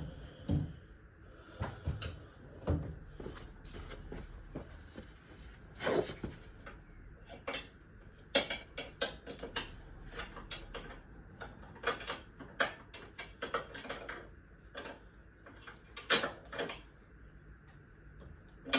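Metal tools and spanners clinking and clattering while someone rummages through a toolbox for a 17 mm spanner, with sharp irregular knocks and clicks, some sounding like drawers or a lid being moved.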